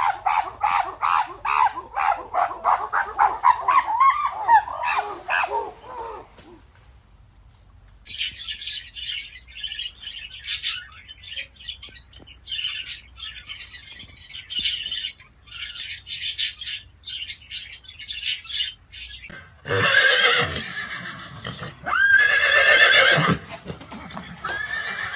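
A run of different animal calls. First comes a rapid series of repeated calls, about three or four a second, for roughly six seconds. After a short quiet gap there is a long stretch of high, thin chirping. From about twenty seconds in, horses whinny loudly, in long calls that rise and fall.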